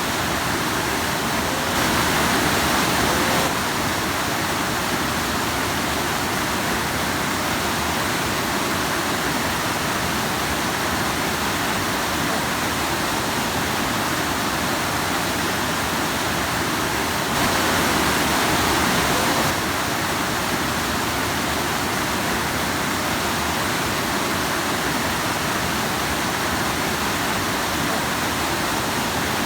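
Rushing stream splashing over rocks: a steady, dense rush of water that swells a little louder twice for a couple of seconds.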